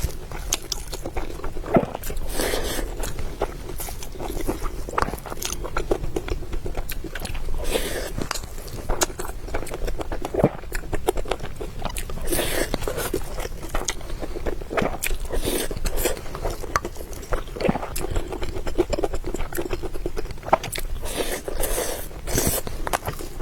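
Close-miked eating sounds: repeated bites and chewing, with frequent short sharp clicks.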